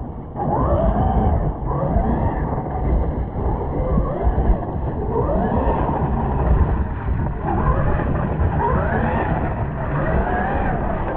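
Traxxas MAXX RC monster truck's brushless electric motor whining up and down in pitch as the throttle is blipped and released, several times in a row, over a steady low rumbling noise.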